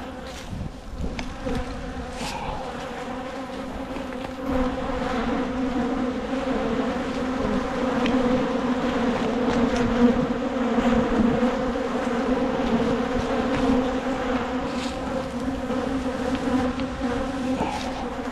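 Honeybees buzzing in a dense, steady hum around an opened hive, growing louder about four seconds in. The colony is agitated and defensive, stirred up by a late-season hive inspection.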